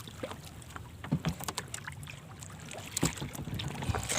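A few short knocks and taps from handling on a small fishing boat, over low wind and water noise.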